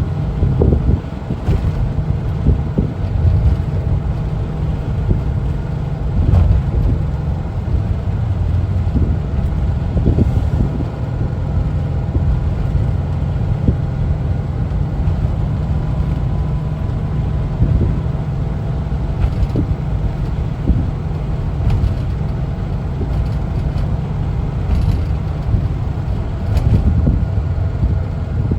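A 1974 Volkswagen Westfalia camper van is driving at a steady pace: its air-cooled flat-four engine runs with a constant low rumble under road noise. Short knocks or rattles come through now and then.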